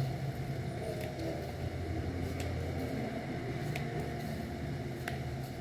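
Slime being handled, with a few faint clicking pops about once a second over a steady low rumble.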